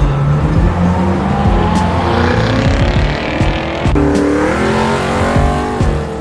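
A car engine revving hard as the car accelerates away. Its pitch climbs, drops sharply about four seconds in, then climbs again, like an upshift under full throttle.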